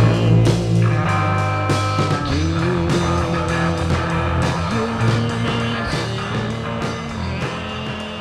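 Psychedelic rock music with guitar over a held bass line, gradually getting quieter.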